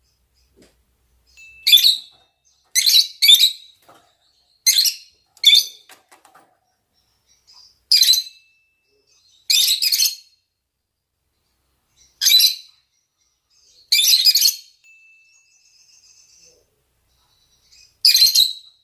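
Lovebirds, rosy-faced and Fischer's, giving short shrill calls: about ten, spaced a second or two apart, some in quick pairs. They are presented as male and female calls for mating.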